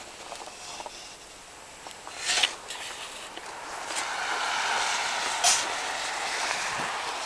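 Steady outdoor rushing noise that swells about halfway through, with a short loud noisy burst and a couple of sharp clicks or knocks.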